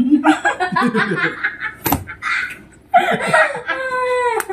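People laughing and snickering in short choppy bursts, broken by a single sharp smack about two seconds in.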